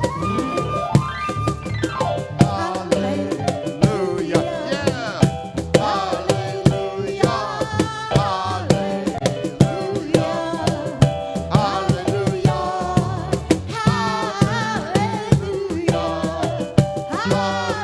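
Music: a band playing, with a steady drum and percussion beat under a sliding melody line.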